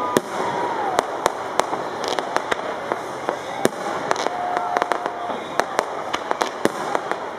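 Fireworks display bursting overhead: a rapid, irregular string of sharp bangs and crackles, about three a second, over a continuous background rumble.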